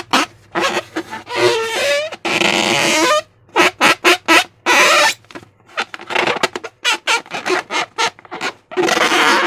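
Slime being squeezed and worked by hand, in and around a transparent balloon: an irregular run of short wet squelches, with a longer wavering one about two to three seconds in.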